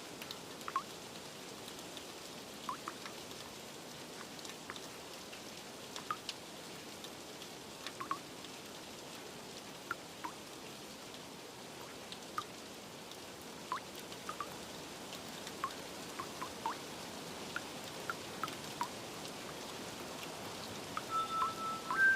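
Steady rain with drops plinking irregularly, a few a second at most. Near the end, soft chime notes start.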